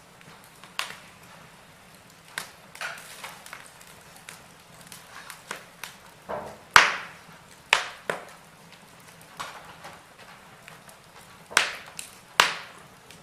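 Wood fire in a fireplace crackling, with irregular sharp pops over a faint hiss; the loudest pop comes about seven seconds in, with two more strong ones near the end.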